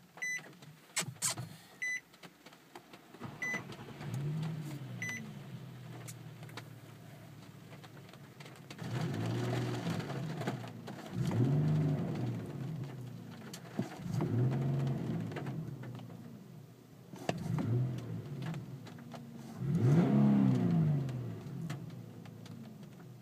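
Infiniti G37X's 3.7-litre V6 heard from inside the cabin, coming to life after a few short chimes from the car. It is revved about six times, each rev rising and falling back toward idle, the last one the loudest. It is running again after collision repair.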